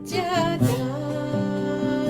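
Kirtan devotional chanting with accompaniment: a voice draws out a wavering sung note, then settles into a held tone over steady sustained instrumental notes.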